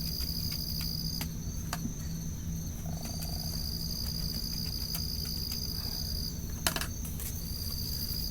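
Crickets trilling steadily on one high note, stopping and starting again in long stretches, over a low steady hum. A few faint clicks, one sharper near the end.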